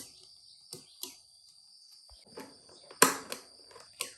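Irregular sharp knocks, about six, the loudest about three seconds in, over a steady high insect trill.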